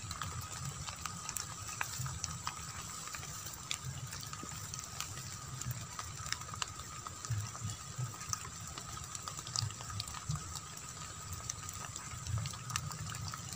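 Light drizzle: scattered raindrop ticks on the water and plants, over a low steady rumble and two faint steady high tones.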